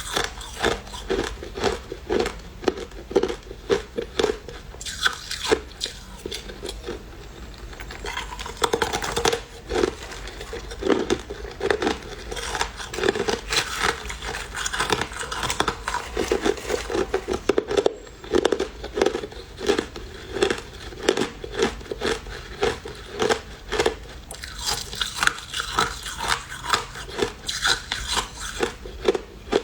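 Crushed ice being bitten and chewed close to the mouth: a steady run of sharp, brittle crunches, about one to two a second.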